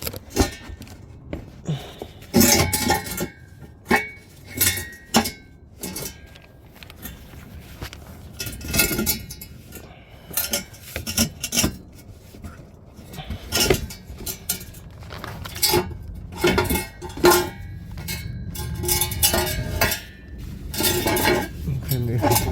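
Irregular metallic clanks, scrapes and ringing knocks as a car's catalytic converter and exhaust pipe are wiggled and worked through a tight space under the car.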